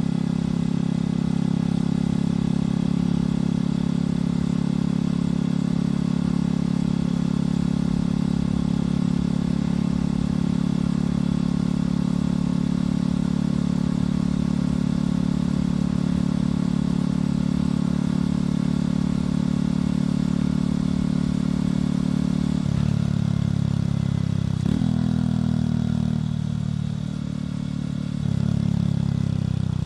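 Motorcycle engine and exhaust running at a steady cruising speed. About two-thirds of the way in, the engine note drops in steps and briefly eases off, then picks up again near the end, as with gear changes while slowing and pulling away.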